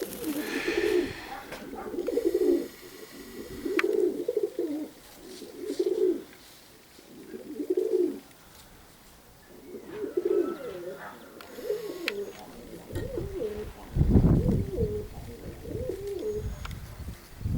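Domestic pigeons cooing, one phrase about every two seconds. About three-quarters of the way through, a gust of wind buffets the microphone.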